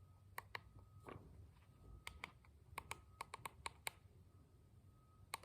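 Faint, irregular clicks of a click-type torque wrench's adjustment handle being turned to set it to 72 foot-pounds, about a dozen clicks, bunched together in the middle.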